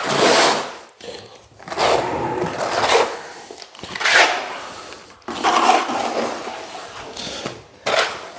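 A series of irregular scraping strokes on a hard surface, each about half a second to a second long.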